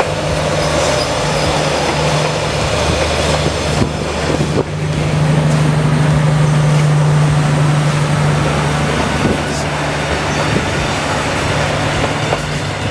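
Passenger train rolling past close by, its wheels running on the rails over a steady diesel engine hum. The hum grows louder for a few seconds around the middle.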